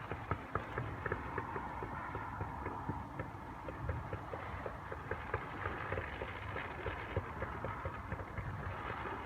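Distant fireworks crackling and popping: many small, irregular pops in quick succession over a low background rumble.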